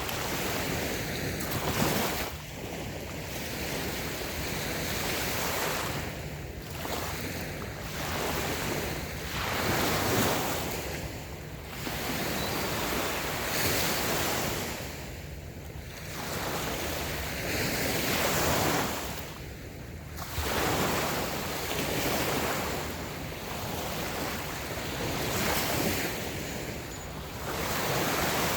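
Small waves breaking and washing on a sandy beach, the surf swelling and easing every few seconds, with a steady low rumble of wind on the microphone.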